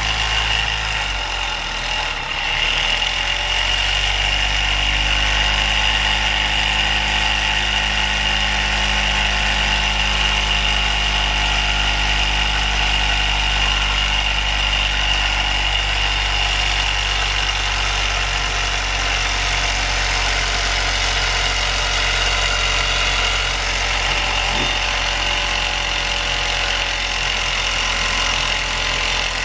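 Rocker V 35cc Stirling hot-air engine running steadily on the heat in its hot cap, a constant mechanical hum with a steady high tone over it.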